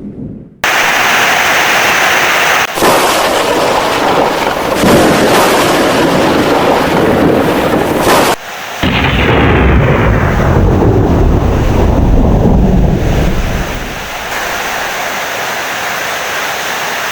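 Heavy rain with loud thunder rumbling. The sound breaks off abruptly several times in the first half, and a long low roll of thunder fades out about two-thirds of the way through, leaving steady rain.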